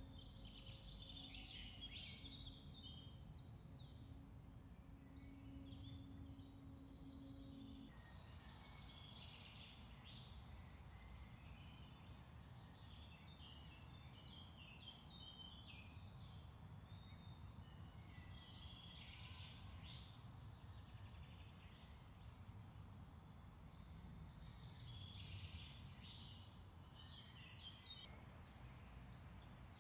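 Faint songbirds singing in repeated short phrases over a low steady background rumble. A faint low hum stops about eight seconds in.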